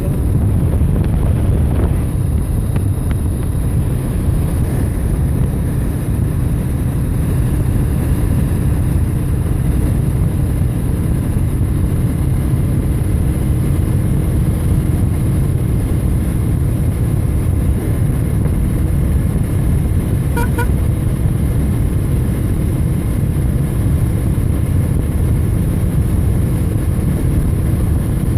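Steady road and wind noise from a motorcycle riding at speed, with a faint steady hum underneath. A brief double beep about twenty seconds in.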